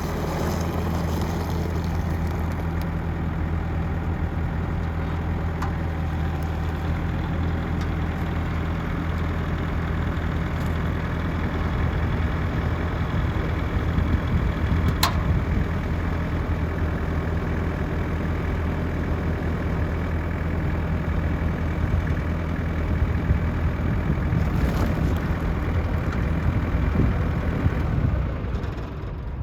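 Diesel engine of a Kubota M820 narrow loader tractor, running steadily. There is a single sharp click about halfway through, and the sound drops away at the very end.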